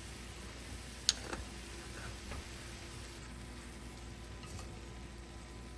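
Cabbage frying in a pan with a faint, steady sizzle. There is a sharp click about a second in, then a few lighter clicks, like a utensil against the pan.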